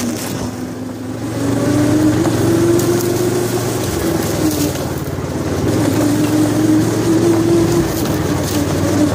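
Stock Predator 420cc single-cylinder four-stroke go-kart engine running under load. Its pitch rises about a second and a half in, dips briefly around the four-second mark, then climbs again.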